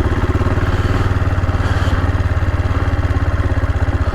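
AJP PR7 single-cylinder motorcycle engine running steadily at low revs, an even rapid pulsing with no revving.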